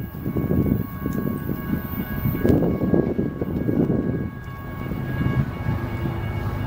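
Approaching freight train: an uneven low rumble that swells and eases, with faint steady high tones held over it.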